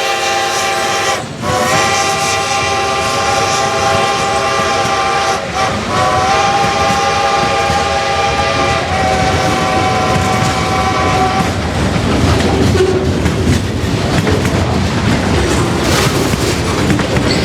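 Great Western #90, a 2-10-0 steam locomotive, sounds its steam whistle in long blasts broken twice, a chord of several steady tones, which stops about eleven seconds in. Under the whistle and after it, the locomotive's heavy exhaust and the rolling freight train rumble on as it works up a grade.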